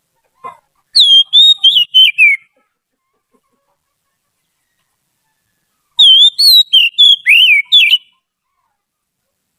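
Oriental magpie-robin (kacer) singing: two phrases of clear, loud whistled notes that bend up and down in pitch, about five seconds apart.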